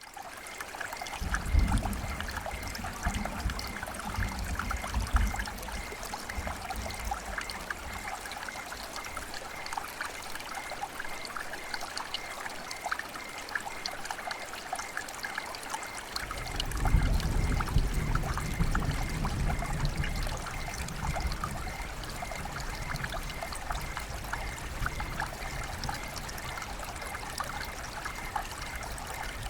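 Steady rain and running water, an even hiss speckled with small drop ticks. A low rumble swells twice, about a second in and again about sixteen seconds in.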